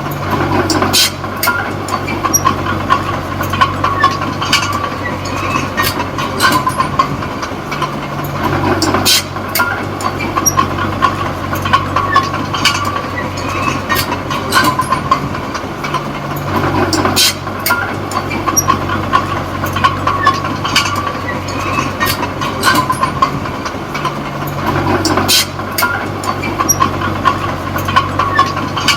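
Small D20P bulldozer's diesel engine running under load while it works soil. The engine note shifts about every eight seconds as the machine pushes and reverses, over frequent metallic clanks and a steady squeal from the steel tracks.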